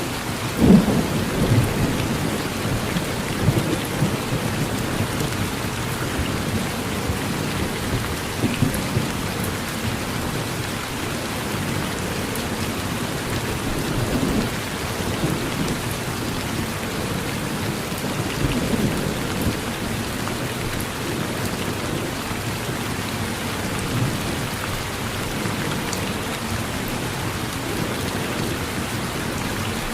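Steady rain falling on a porch, with thunder rumbling low again and again, its loudest clap about a second in.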